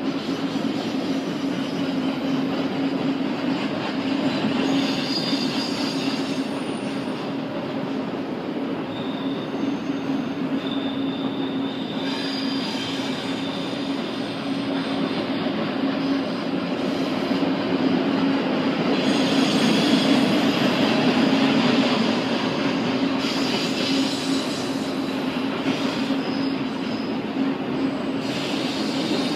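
Double-stack intermodal container cars rolling past: a continuous rumble of steel wheels on rail with a steady low hum and short, faint high-pitched wheel squeals here and there, growing a little louder about two-thirds of the way through.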